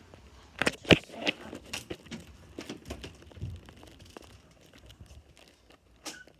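A run of sharp clicks and knocks with some rustling, loudest just under a second in, then thinning out into scattered smaller clicks.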